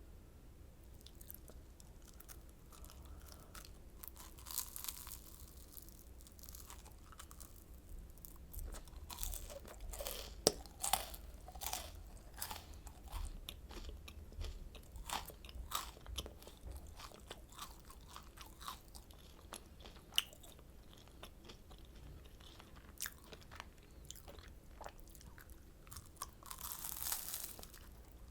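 Crunching and chewing of oranda, a crisp Korean candy of puffed grain bound with syrup, with many sharp crackles as it is bitten and chewed.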